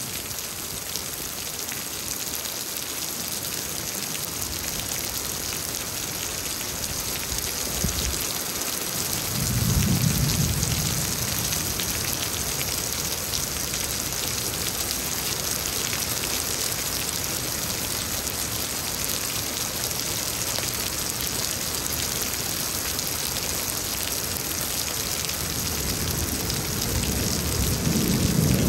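Heavy rain pouring steadily in a thunderstorm, with rolls of thunder rumbling low about ten seconds in and again building near the end.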